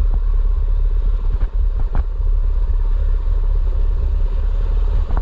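Mini bike's small engine running at a steady speed while riding, under heavy low wind rumble on the microphone, with a couple of brief knocks about a second and a half and two seconds in.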